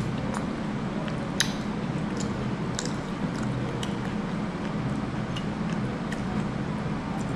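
Close chewing and wet mouth sounds of someone eating, with small scattered clicks and one sharper click about a second and a half in, over a steady low hum.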